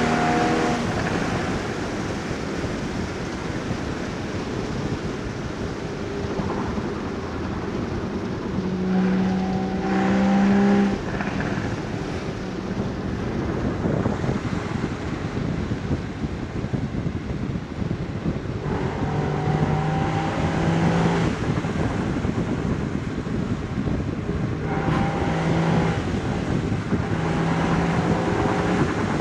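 Porsche Boxster Spyder 981's 3.8-litre flat-six exhaust on the move under a steady rush of wind and road noise. The engine note comes up strongly three times, the first pull cutting off abruptly.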